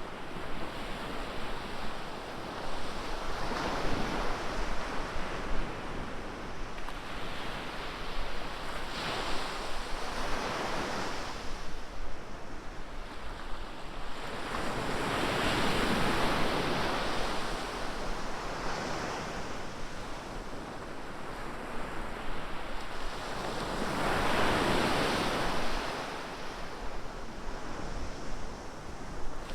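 Ocean surf breaking on a beach: a rushing wash that swells and fades about four times, each wave several seconds long.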